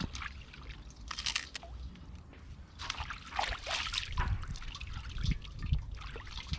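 Creek water sloshing and splashing in irregular bursts as herbs are swished and rinsed by hand in the stream.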